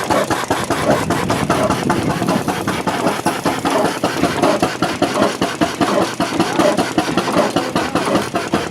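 Hornsby portable stationary engine running steadily at idle, with an even beat of several knocks a second.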